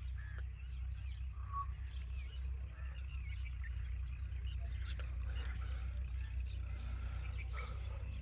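Faint, scattered short chirps from a parrot over a steady low hum.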